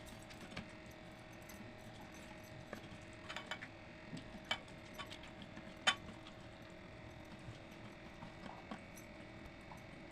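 Close-up eating sounds of someone eating water-soaked rice and side dishes: scattered small clicks and mouth sounds, with one sharper click about six seconds in. A faint steady hum runs underneath.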